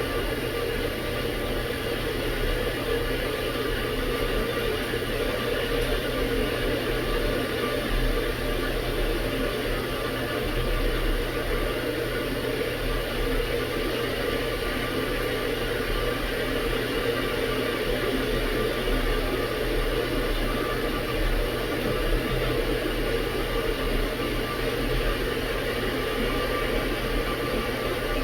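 Tea kettle heating water toward the boil: a steady rushing and rumbling hiss with a low hum underneath, and no whistle yet.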